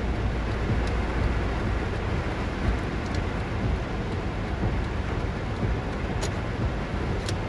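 Typhoon wind and heavy rain, a steady low rumble with a rushing haze over it, and a couple of sharp ticks near the end.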